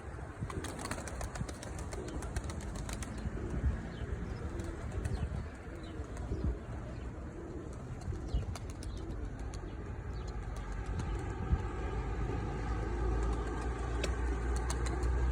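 Wind buffeting the microphone, with scattered wing flaps and claps from Rostov sickle-winged pigeons in flight. The wind rumble grows stronger near the end.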